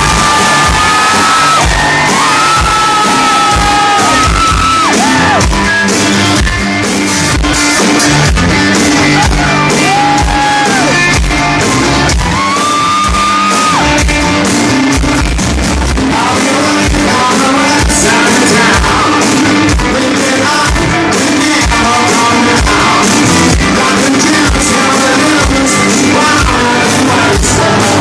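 Live rock band playing loudly in a large hall. A singer holds long notes over a steady beat, with shouting mixed in.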